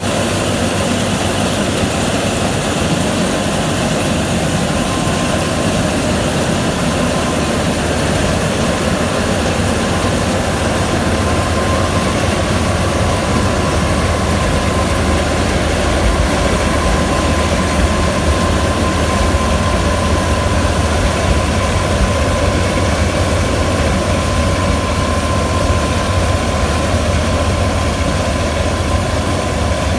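Preet 987 combine harvester running steadily under load while harvesting maize: a constant engine drone with a faint steady whine on top.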